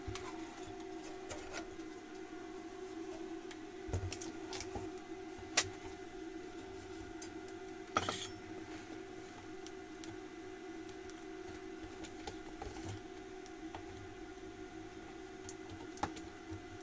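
A few sharp clicks and taps, about four, over a steady low hum.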